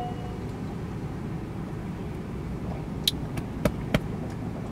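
Steady low rumble of an idling car heard from inside the cabin, with a few sharp clicks about three to four seconds in.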